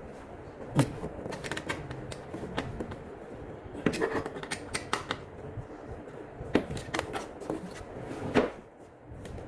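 Irregular clicks, knocks and light clatter from TV assembly parts and screws being handled, with a few louder knocks spread through.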